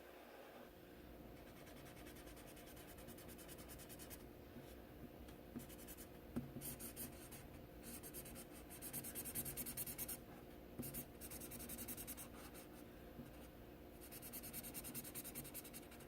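Colouring on paper: quick back-and-forth scribbling strokes that come in spurts, with short pauses between them.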